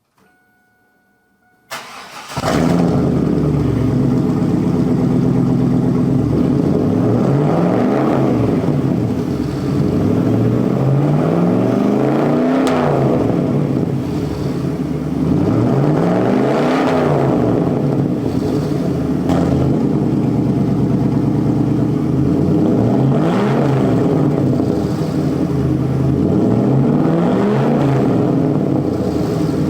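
1998 Pontiac Firebird Formula WS6's 5.7-litre LS1 V8 starting about two seconds in, then running loudly, revved up and back down every few seconds.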